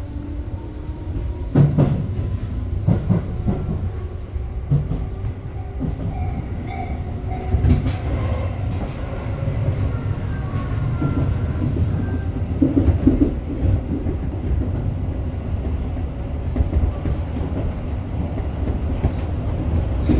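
Tobu 8000-series electric commuter train running between stations, with a steady rumble of wheels on rail. Irregular clatter and knocks come as the wheels cross rail joints.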